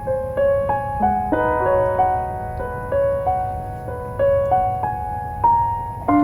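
Solo piano music: a melody of single notes struck one after another, each ringing and fading, over a steady low background noise.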